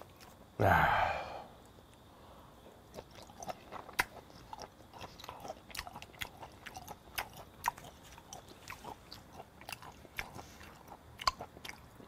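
A person chewing a mouthful of raw flounder sashimi close to the microphone: a scatter of small, irregular wet mouth clicks.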